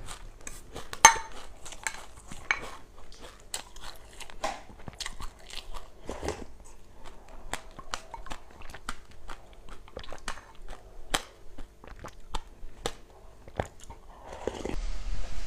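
A person chewing crunchy seeds close to the microphone: irregular sharp crunches and cracks. A louder, steadier noise builds up near the end.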